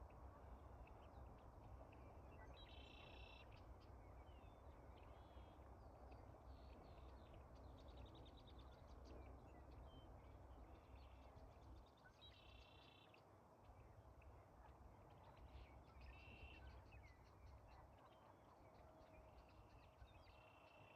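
Faint outdoor ambience: short harsh bird calls come a few times, with quick chirping trills between them and a low rumble underneath.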